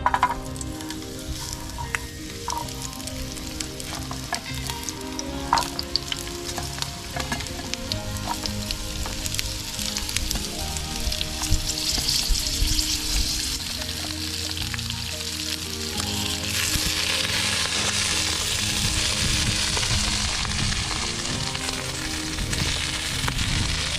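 Food sizzling in a frying pan, with a few light clicks of a utensil early on. The sizzle grows louder about two-thirds of the way in.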